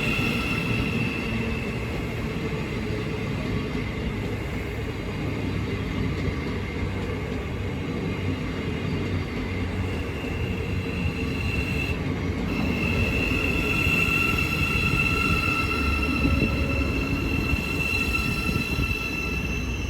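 Thameslink class 700 electric train: a steady low rumble with a high-pitched squealing tone over it. The tone breaks off briefly about twelve seconds in.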